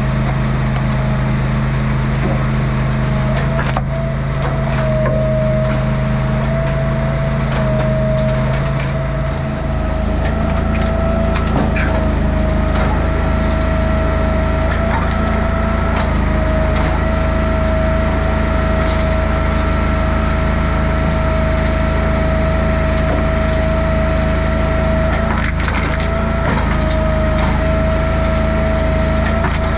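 Engine-driven log splitter running steadily, with a steady high whine over the engine and the crack of wood being split. The engine note changes about ten seconds in.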